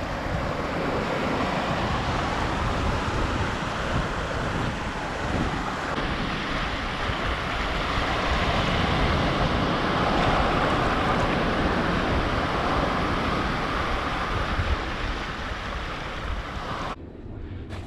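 Ocean surf washing onto a sand beach, with wind buffeting the microphone as a low rumble; it cuts off abruptly near the end.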